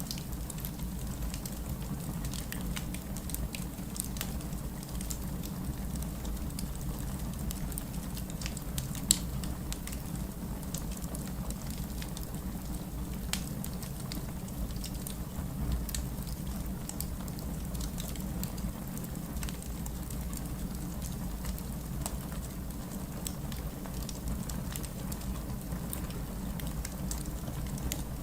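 Steady heavy rain with a wood fire crackling over it, in scattered small pops and one sharper pop about nine seconds in.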